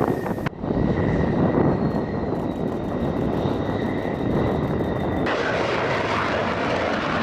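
F-16 Fighting Falcon's jet engine running: a steady high whine over a loud rushing noise. The sound changes abruptly twice, about half a second in and about five seconds in.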